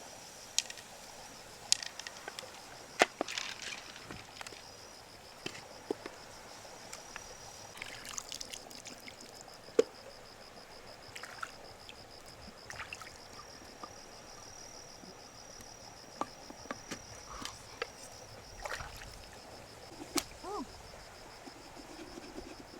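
Scattered sharp clicks and light water sounds from freshwater mussel shells being handled, over a steady, high, pulsing insect trill that breaks off briefly around the middle.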